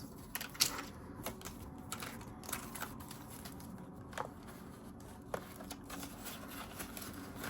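Paper banknotes and cash envelopes being handled and sorted: scattered soft rustles and flicks of paper.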